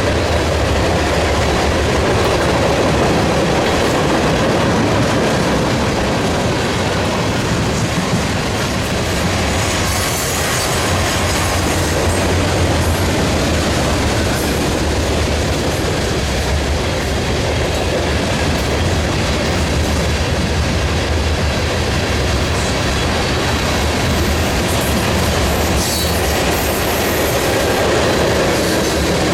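Wisconsin and Southern freight train rolling past, its cars' wheels clacking over the rail joints in a steady loud rumble.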